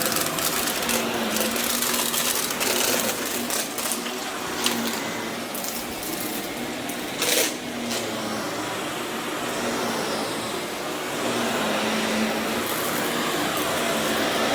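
Vacuum cleaner running over berber carpet, with many crackling clicks of grit and debris being sucked up and one louder crackle about seven seconds in.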